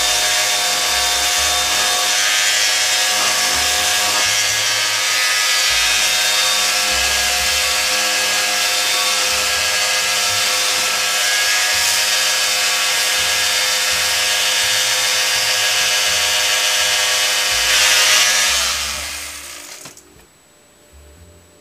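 Electric power sander with 120-grit paper sanding hardened JB Weld epoxy filler on an old metal horn. It runs steadily with a motor whine under the grinding noise, rises briefly about 18 seconds in, then winds down and stops.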